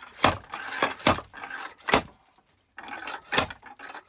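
A wedge splitting axe chopping into oak firewood: four sharp chops with a lighter knock among the first, then a pause of about a second before the last.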